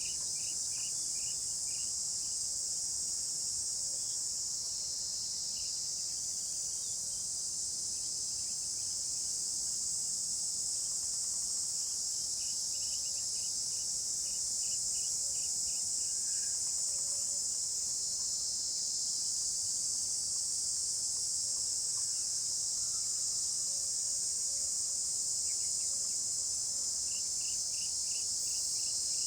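A steady, high-pitched insect chorus. Faint runs of short, evenly spaced chirps come in at the start, in the middle and near the end.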